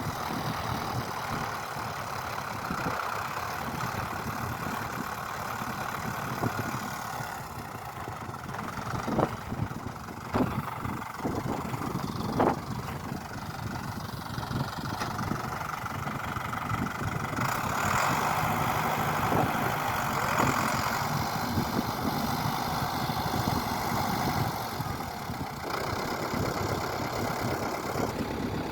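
Small engine running steadily, with a few sharp knocks about nine to twelve seconds in.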